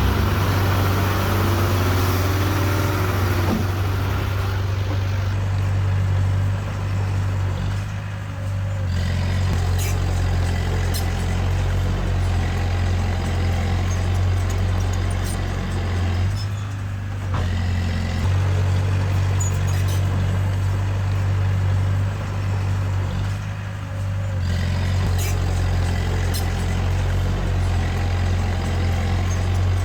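Diesel engine of a Komatsu D20A bulldozer running steadily under work. Its low engine note drops briefly three times, about every seven to eight seconds, with scattered light clicks and clanks.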